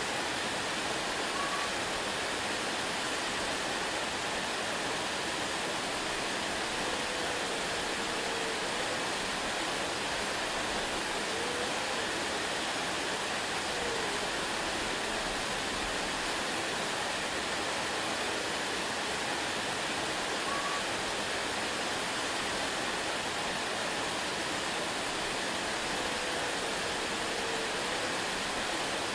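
Waterfall: steady rushing of falling water, an even hiss with no change in level.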